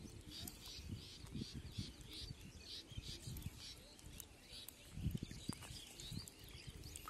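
A bird calling a quick run of short high chirps, about three a second, that fades out about halfway through. Underneath, low irregular splashing and sloshing of water around a man wading and handling a net, loudest about five seconds in.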